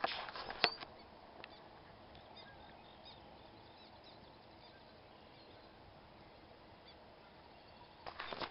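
Marsh ambience: faint, scattered bird calls over a low steady hiss, with a short, louder noisy burst and a click in the first second and another noisy burst near the end.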